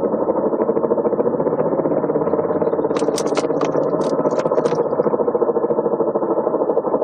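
Car on the move with a rapid, steady knocking from a worn wheel hub bearing. A few sharper clicks come through about three to five seconds in.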